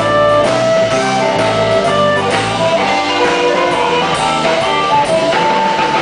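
A blues-rock band plays an instrumental break: guitar over a stepping bass line and drum kit, with no vocals.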